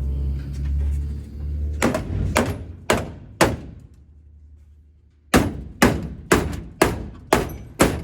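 Guitar background music fades out, then hammer blows ring on metal, about two a second. Four come in a first run, then after a short pause six more, evenly spaced, knocking the stuck landing-gear box loose from the airframe.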